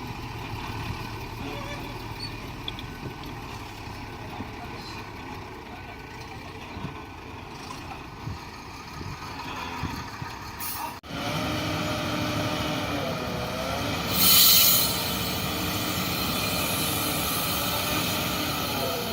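Heavy diesel earth-moving machinery running. About eleven seconds in the sound breaks off and comes back louder, with a steady whine that briefly wavers in pitch, and a few seconds later a short loud hiss of air is heard.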